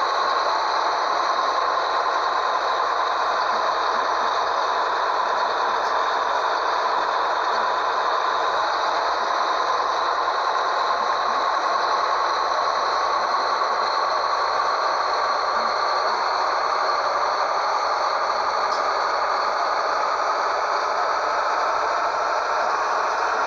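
Scania 113H truck with its 11-litre six-cylinder diesel running under way, a steady drone with rattling and a whine that slowly rises in pitch.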